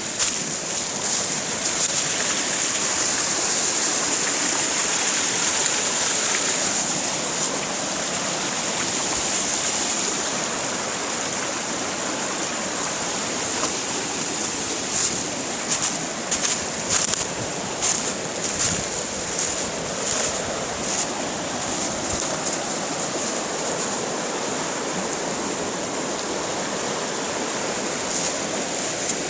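River water rushing, a steady hiss. In the second half a run of brief sharp noises sounds over it.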